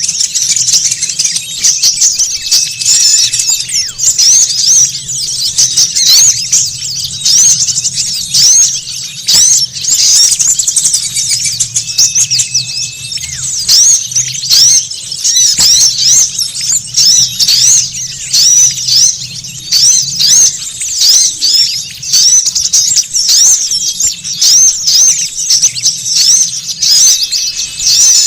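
Small songbirds chattering noisily together, a dense, unbroken stream of quick high chirps and twitters, as in a bird-lure recording meant to draw in small wild birds. A short steady whistled note recurs about every twelve seconds.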